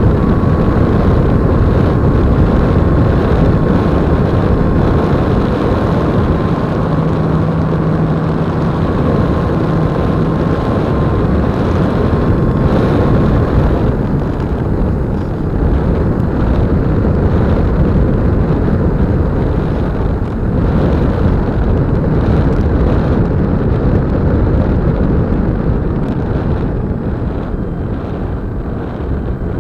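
E-flite Apprentice 15e electric RC plane in flight, heard from its on-board camera: a steady rush of propeller and wind noise on the microphone, with the motor running throughout. A thin steady whine stops about halfway through.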